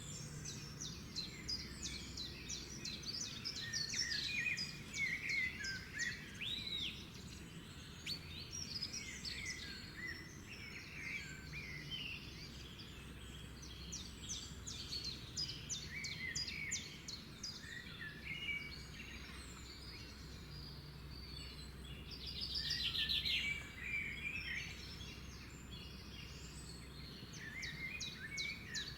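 Many songbirds singing and chirping at once: rapid trills and short chirps overlapping throughout, over a low steady rumble.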